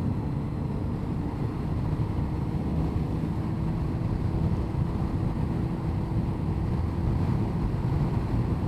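Motorcycle riding at a steady speed: the Honda CBR1100XX Blackbird's inline-four engine holds an even note under a steady rush of wind on the microphone.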